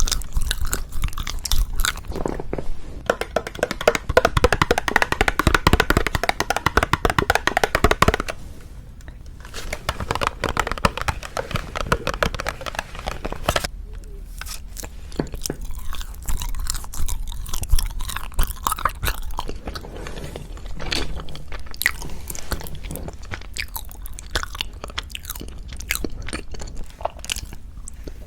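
Close-miked chewing and biting of wagashi (Japanese sweets): a dense run of small clicks and crunches, loudest in the first eight seconds, with a short pause about 14 seconds in.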